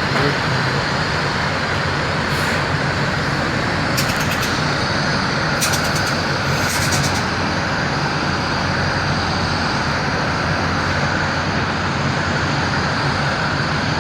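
A semi-truck's engine runs steadily under a continuous wash of road and traffic noise. There are a few brief clicks between about four and seven seconds in.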